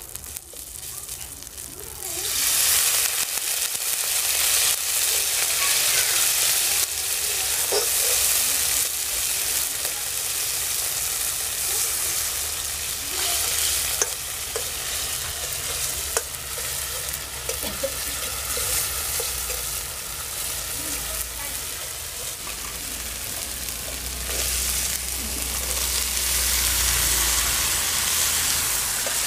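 Spices and onion sizzling steadily in hot oil in a metal kadai, with a steel spatula stirring and scraping the pan in small clicks. The sizzle gets louder about two seconds in.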